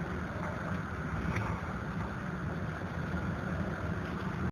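Strong storm wind buffeting the microphone: a steady low rumble with a faint click about one and a half seconds in.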